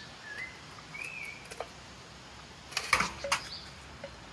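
Two short whistled bird calls, each a quick wavering note, then a few sharp clicking footsteps about three seconds in.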